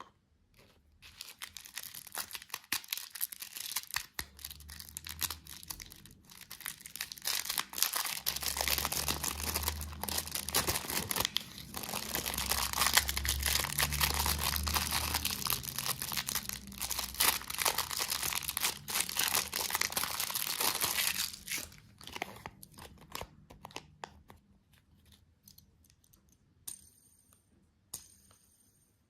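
Candy packaging being torn and crinkled close to the microphone, a dense crackling that runs for about twenty seconds. It then thins to scattered clicks, with a few light clinks near the end.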